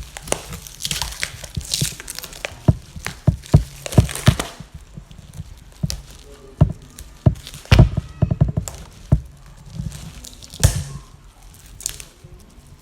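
Packaging being unwrapped by hand: rustling and tearing for the first few seconds, then scattered knocks and taps as the box and parts are handled.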